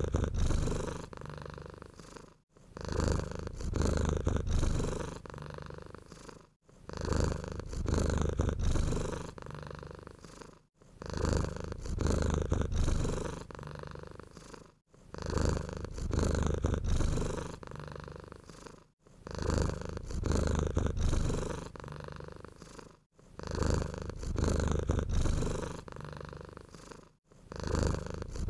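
Domestic cat purring close up: a low rumble, a louder stretch then a softer one, repeating about every four seconds. The same few seconds recur exactly, with a brief dropout between repeats.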